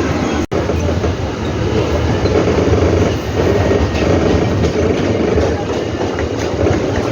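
Mumbai suburban local train running along the track, a loud steady noise of the wheels and carriages, broken off for an instant about half a second in.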